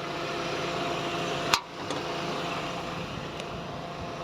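Steady low hum of a car's running engine, with one sharp click about a second and a half in and a couple of faint ticks after it, as a part at the front of the car is opened by hand.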